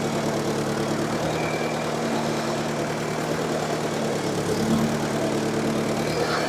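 1954 Ford NAA tractor's four-cylinder gasoline engine idling steadily, a little louder for a moment about four and a half seconds in.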